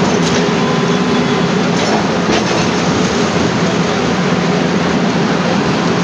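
Heavy demolition machinery running with a loud, steady rumble, and a couple of brief knocks.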